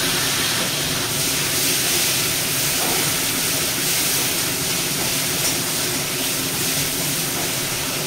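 Tomato pieces and a bay leaf frying in hot mustard oil in an aluminium kadai: a steady sizzle.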